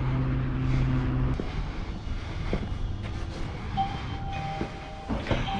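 A vehicle engine idling with a steady low hum that cuts off abruptly about a second and a half in, followed by scattered clicks and knocks.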